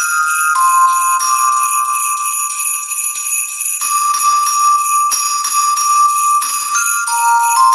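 Sleigh bells jingling continuously, with high held tones that step to a new pitch every second or two.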